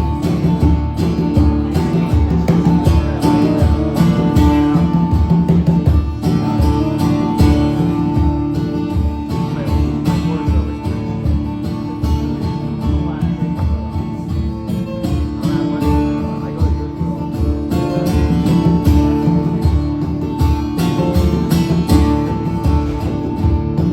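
A live band playing, with guitar over a steady drum beat and sustained held notes.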